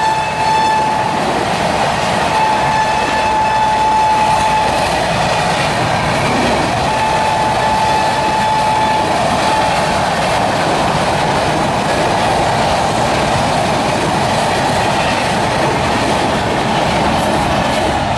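Train passing with its WAP-7 electric locomotive's horn sounding three long, steady blasts over the first ten seconds, over the loud, continuous rush of wheels on rails that carries on after the horn stops.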